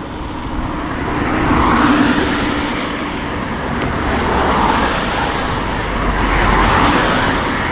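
Road traffic passing: two motor vehicles go by, the first swelling up about two seconds in and the second near the end.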